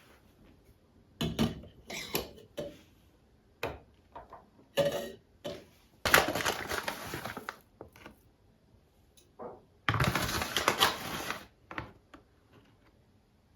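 Kitchenware being handled: a series of short clatters and clinks, with two longer rushing, scraping stretches of about a second and a half each, one near the middle and one about two thirds of the way in.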